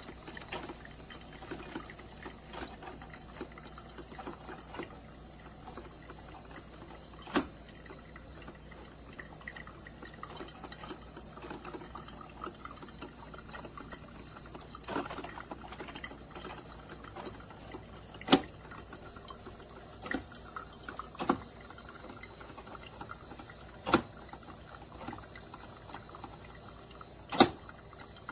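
Drip coffee maker brewing: a steady hiss and trickle of water, with about seven sharp pops or spits at uneven intervals.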